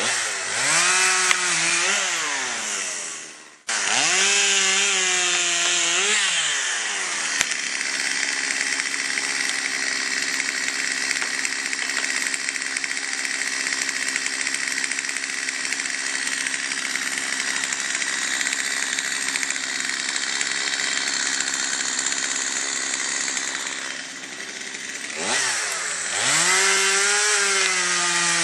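Chainsaw felling a large pine: the engine revs up and down over the first few seconds, then runs steadily at high speed through a long cut, and revs up and down again near the end.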